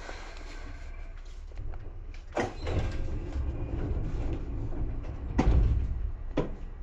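Seibu 2000 series electric train running, heard from inside the car above its line breaker: a steady low rumble that grows louder from about two seconds in, broken by three sharp clunks over the last four seconds, the middle one the loudest.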